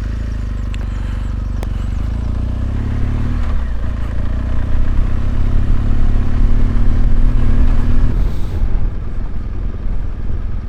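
BMW R1200GS Adventure's flat-twin boxer engine running as the motorcycle rides along a gravel road, with a few sharp ticks. It gets louder through the middle and eases off after about eight seconds.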